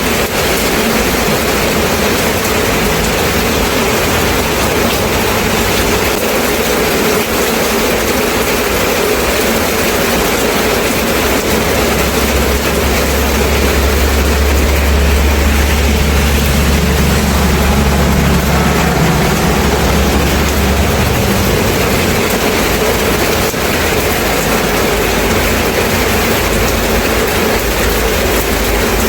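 Steady rain, an even hiss. A low rumble rises about twelve seconds in and fades after about nine seconds.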